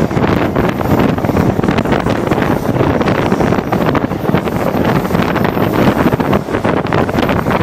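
Heavy wind buffeting the microphone over the steady running noise of a Vale EFVM passenger train.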